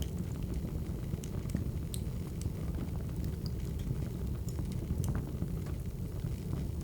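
Wood fire crackling: scattered sharp pops and snaps over a steady low rumble of burning logs.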